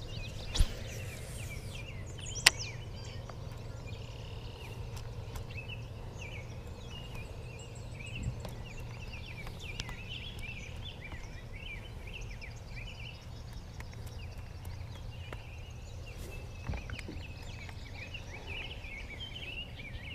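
Birds chirping and singing over a steady low hum, with two sharp clicks in the first few seconds.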